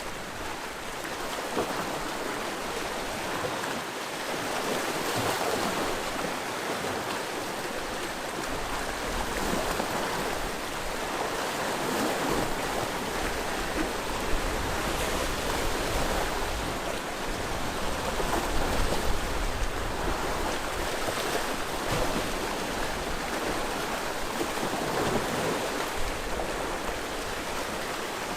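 Sea waves washing onto the shore: a steady rush of surf that swells and eases every few seconds.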